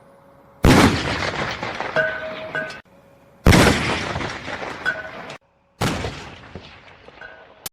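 Three sudden loud bangs, each fading away over a second or two; the first two are cut off abruptly.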